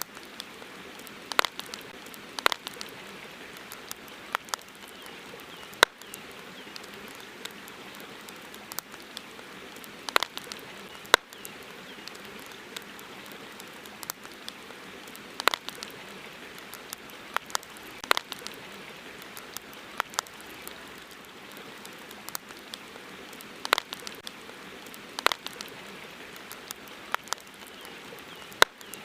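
Campfire crackling, with sharp irregular pops every second or two over a steady hiss.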